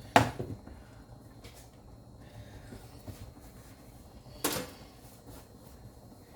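Kitchen handling noise: a sharp knock just after the start and a weaker one about four seconds later, with a few faint clicks between, like a cupboard door or dishes being set down.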